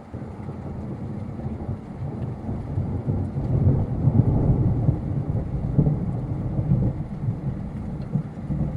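Long rolling rumble of thunder from a nearby lightning strike, building to its loudest about four seconds in and rumbling on, with rain falling.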